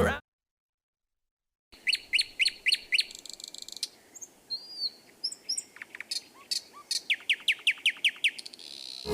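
Songbird calls: after a brief silence, a bird repeats a short high note in a quick run of about five, then a few scattered chirps, then another fast run of repeated notes near the end.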